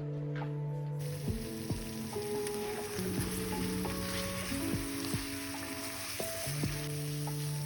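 Chicken pieces cooking in spiced water in a kadai, sizzling and bubbling steadily from about a second in. Soft acoustic background music plays over it.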